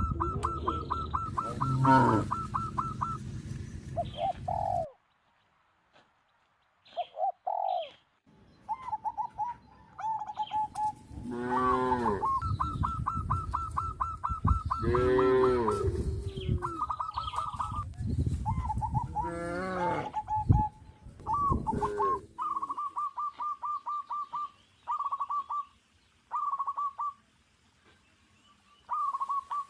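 Farmyard bird calls: fast trains of repeated notes and short calls, with a few lower, drawn-out calls mixed in and several abrupt silent gaps.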